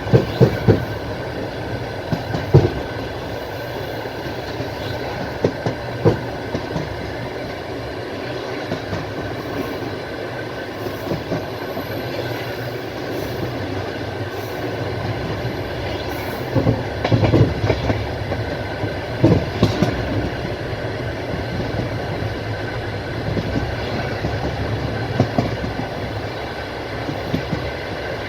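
Passenger train wheels rolling over the track with a steady rumble, clattering in clusters of knocks as the bogies cross rail joints several times.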